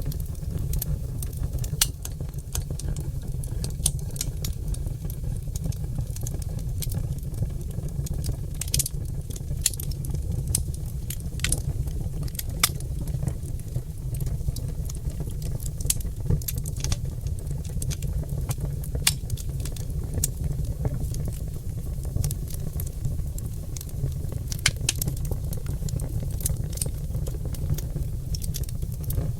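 Oak logs burning in a fireplace, crackling with irregular sharp pops over a steady low rumble of the fire.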